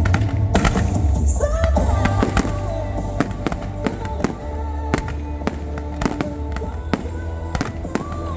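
Fireworks going off in a rapid, irregular series of sharp bangs and cracks, over music with a heavy, steady bass.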